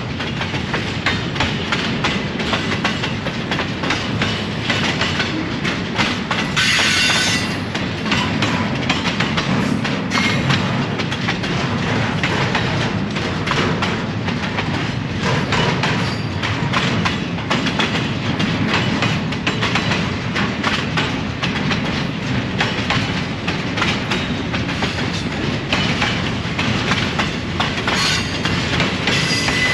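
Train cars rolling along the track: a steady rumble with constant clacking of wheels over the rails, and a brief hiss about seven seconds in.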